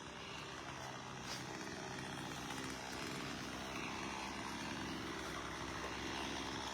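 A distant engine drones steadily, slowly growing a little louder.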